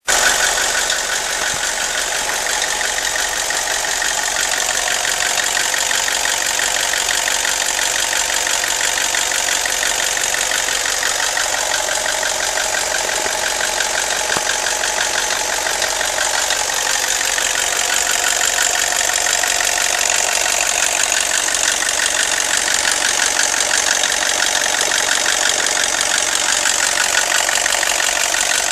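BMW E46 318ti Compact's four-cylinder petrol engine running steadily with a fast, continuous ticking clatter: a strange noise whose cause the owner cannot identify.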